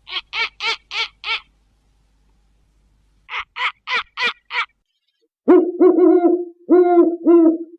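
Owl calls: two runs of five short, high-pitched notes, about four a second, then two louder bouts of lower, pulsing hoots in the last two seconds or so.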